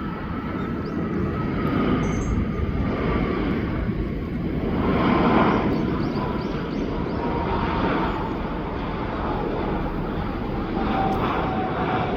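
Airbus A321neo twin-jet landing: engine rumble with a high whine that slowly falls in pitch, swelling in loudness a few times.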